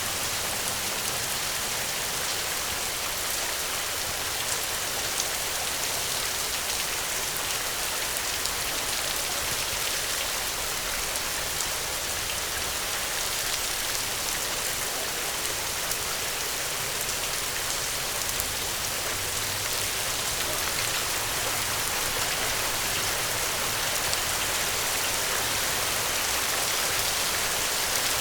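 Steady, dense rainfall pattering on a surface, with fine individual drop ticks and no thunder.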